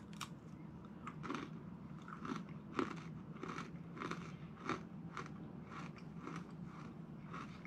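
Crunchy chewing of a Trader Joe's trail mix cracker, a crisp seeded cracker with cranberries and nuts: a bite, then a steady run of crunches about two a second, with a louder crunch about three seconds in.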